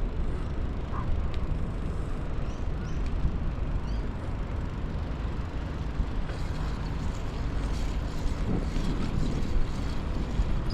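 Steady low rumble of wind on the microphone and tyre noise from a bicycle being ridden.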